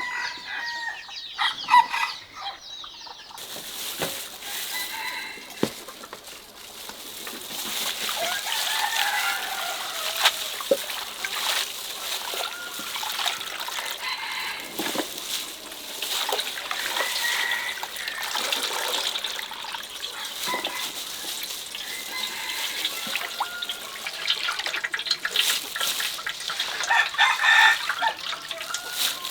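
Chickens clucking, with a rooster crowing, over scattered sharp knocks and clatter. The calls grow busier near the end.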